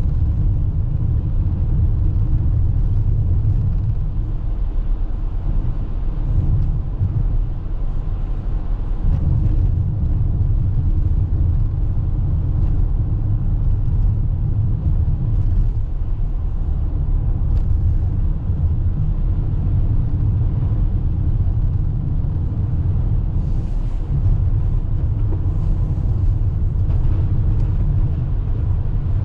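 Steady low road and tyre rumble inside a Toyota RAV4 Hybrid's cabin while driving on a snowy road, with faint scattered ticks and a brief hiss a little over three-quarters of the way through.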